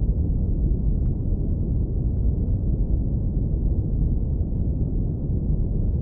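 Steady deep brown noise, low-pass filtered into a warm, low rumble with no high hiss.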